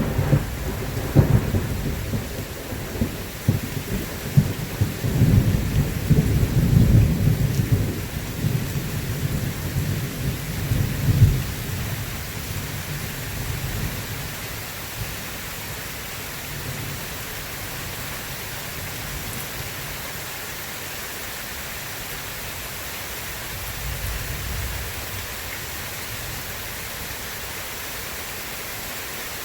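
Thunderstorm: rolling thunder rumbling and crackling over steady rain, then dying away to leave the steady hiss of rain. A faint low rumble of thunder returns near the end.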